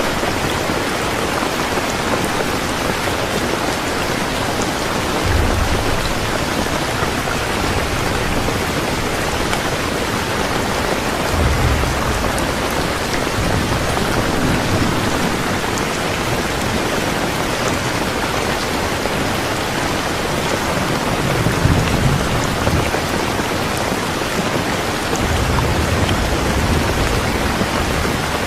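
Steady rain falling, a continuous even hiss, with several low rumbles of distant thunder rolling in, the strongest about two-thirds of the way through.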